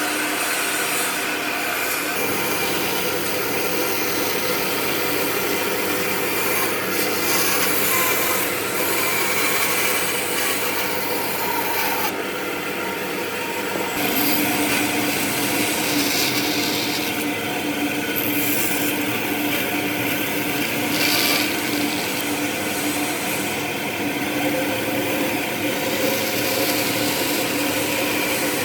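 A power tool working wood: a steady motor sound under continuous abrasive rubbing and grinding of wood, which shifts in tone about twelve to fourteen seconds in.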